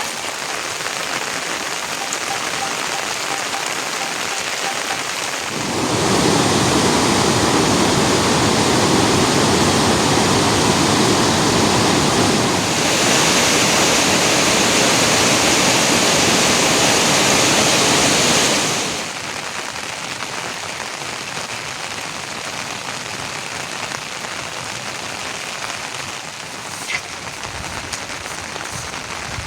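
Steady rain falling. It gets abruptly louder and heavier about six seconds in, holds for about thirteen seconds, then drops back to a lighter patter. One small sharp tick comes near the end.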